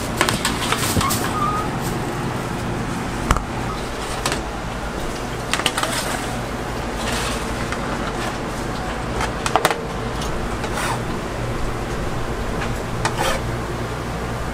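Kitchen background noise: a steady machine hum with scattered short clicks and knocks of work.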